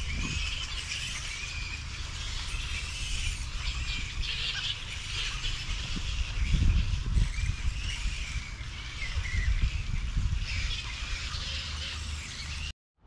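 Birds calling and chirping among trees, many short chirps and little rising-and-falling whistles, over a low fluctuating rumble. The sound cuts off suddenly just before the end.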